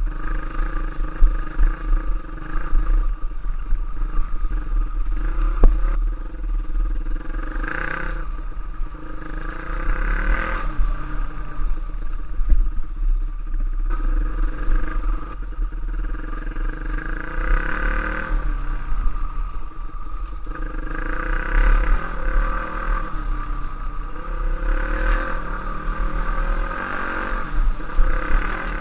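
Trail motorcycle engine running on a ride, its revs rising and falling again and again as the throttle is worked, over a steady low rumble.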